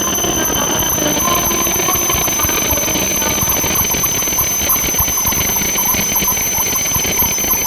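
E7-series Shinkansen train running slowly along the platform as it pulls in to stop, with a steady high-pitched squeal over its running noise.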